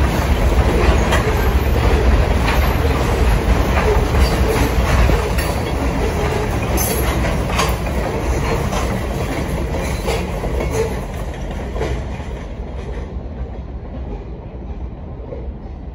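A freight train of covered hopper cars rolling past, its steel wheels clacking over the rail joints. The rumble fades steadily, and the clacking drops away near the end as the last cars pass.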